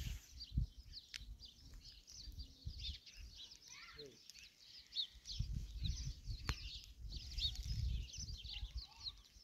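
Many small birds chirping densely and continuously, with a low rumble and a few sharp knocks underneath in the second half.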